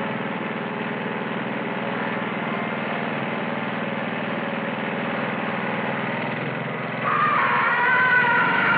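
Power lawn mower engine running steadily. About seven seconds in, a louder wavering sound joins it.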